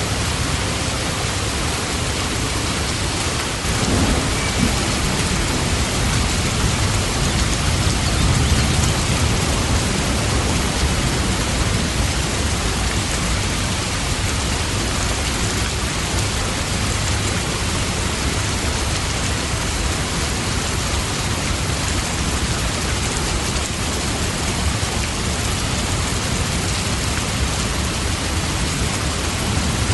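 Steady heavy rain, a dense even hiss of falling drops. About four seconds in, a low rumble swells under it and fades over several seconds.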